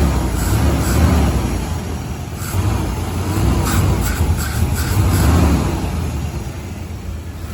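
1992 Chevy Silverado's throttle-body-injected engine running, its sound rising and falling a few times, now that it has a new ignition coil and ignition control module.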